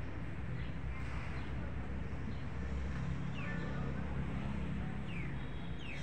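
Small birds calling: several short chirps that slide steeply downward in pitch, spaced a second or two apart, over a steady low rumble.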